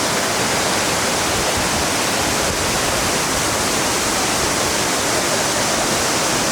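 Florence Falls, a twin waterfall, pouring into its plunge pool: a steady, even rush of falling water.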